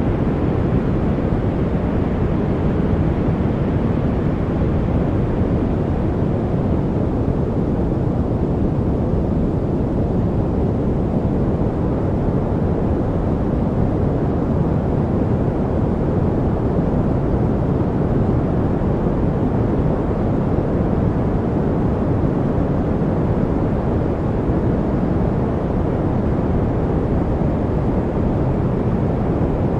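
Steady, unchanging noise of the kind played as a study aid, deep in character, with most of its energy in the low range and little hiss at the top.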